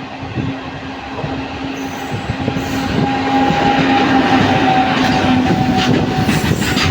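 Freight train hauled by twin WAG-9 electric locomotives drawing close, getting steadily louder. A long horn blast with two steady notes falls slightly in pitch before it stops near the end, and wheels clatter over the rail joints as the train reaches the crossing.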